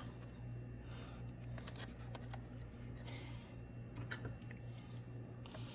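Faint, scattered light clicks and rattles of hands working at an ignition coil pack on top of a V8's spark plugs, over a steady low hum.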